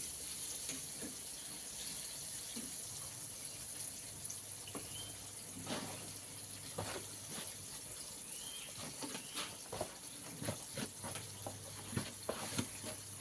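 Hot oil sizzling steadily as chicken pieces deep-fry, with scattered light clicks and knocks.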